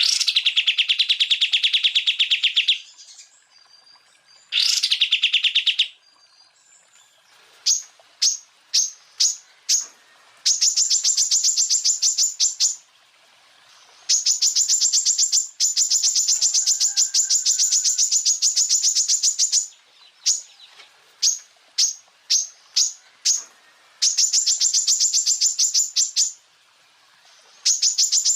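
Green leafbird (cucak ijo) song in fast trilled 'tembakan' bursts of a few seconds each. Two lower trills come first, then a run of short high chips and several long, high-pitched rapid trills.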